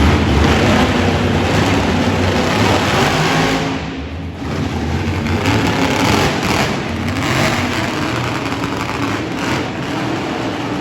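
Monster truck engine running loud and hard, revving. The sound dips briefly about four seconds in and then builds again.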